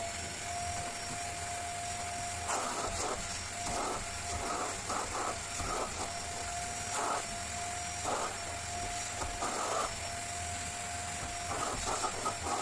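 A small machine running steadily with a held mid-pitched whine, broken by irregular short rubbing noises every second or so.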